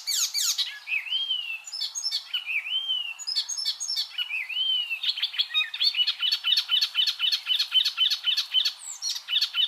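Icterine warbler singing a varied, fast song: quick downslurred notes and a few arched whistles, then a rapid run of repeated notes from about halfway through.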